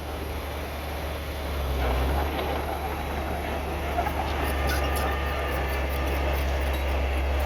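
Bulldozer's diesel engine running steadily under load, with its crawler tracks clattering and squealing, the squeal and clicks more prominent in the second half.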